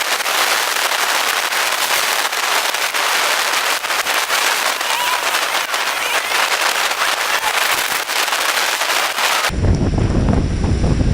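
Dense crackling hiss, like rain drops pelting the camera's microphone, with no engine or wind rumble heard under it.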